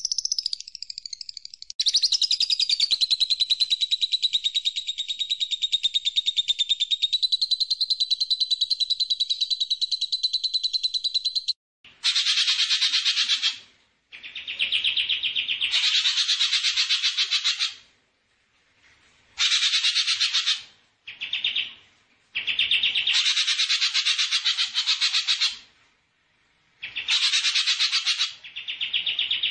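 Small songbird giving a rapid, buzzy pulsed trill: one long trill of about ten seconds, then shorter trills of two to four seconds each, separated by brief gaps.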